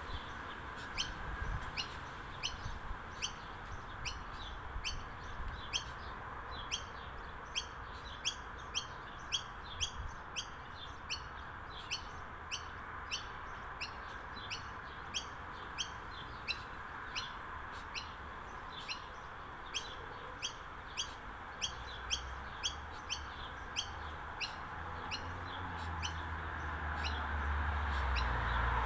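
A backyard bird chirping over and over, short high chirps that fall in pitch, about two a second, over a steady hiss. A low rumble builds near the end.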